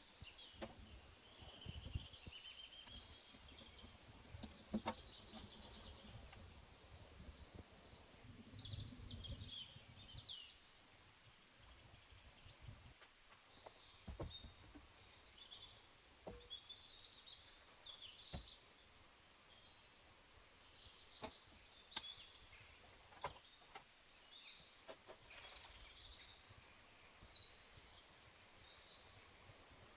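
Small birds chirping and twittering on and off, with a few faint scattered knocks and clicks.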